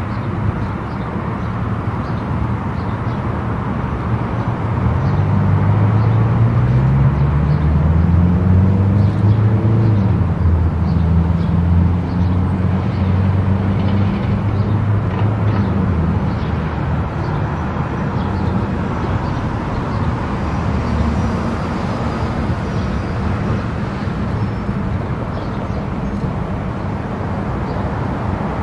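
Vehicle driving at highway speed: steady road and engine noise, with a low engine note rising in pitch about five seconds in, then holding level.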